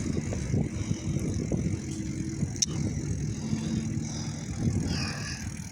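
Riding a bicycle: a steady low rumble with many small knocks and rattles. There is a sharp click about two and a half seconds in and a brief falling high tone near the end.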